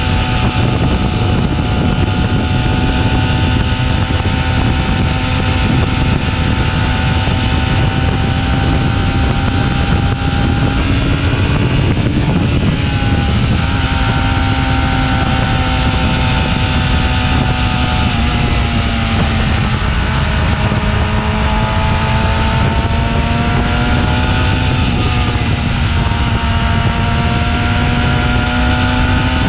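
Stock Yamaha R6 inline-four engine running at a steady, fairly high speed, its pitch easing down and climbing again a few times, with wind rumbling on the microphone.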